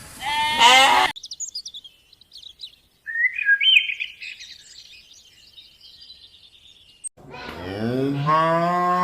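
A sheep or goat bleat that cuts off about a second in, then several seconds of high, thin bird chirping. Near the end a cow starts a long moo that rises and then holds a steady pitch.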